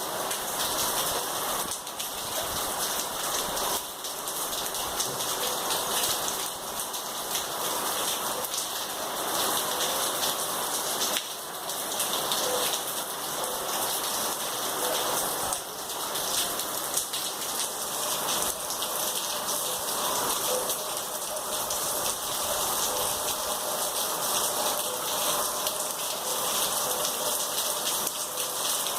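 Heavy rain pouring steadily, a dense hiss of drops hitting surfaces.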